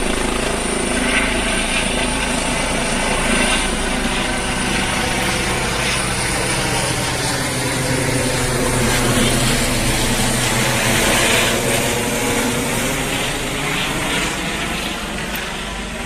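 Emergency medical helicopter flying at close range: steady rotor and turbine noise with a thin high whine over it, easing off slightly near the end.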